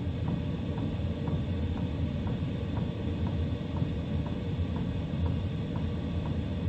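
Cheap diesel FF parking heater running: its electromagnetic fuel pump ticks about twice a second over the steady rumble of the blower fan.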